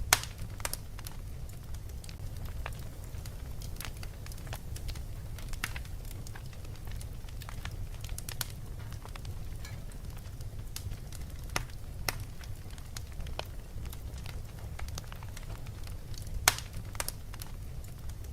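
Wood fire crackling in a fireplace: irregular sharp pops and snaps, with a loud pop right at the start and another about sixteen seconds in, over a steady low rumble.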